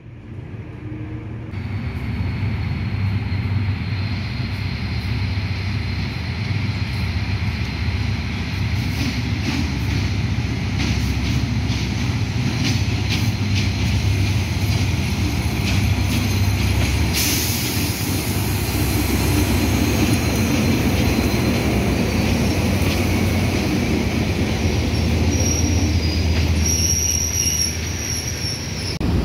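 A diesel locomotive hauling a passenger train approaches and passes slowly, its engine rumbling low and steady. The wheels clack over rail joints and points, with a series of clicks through the middle. Near the end a high-pitched wheel squeal rises as the carriages roll by.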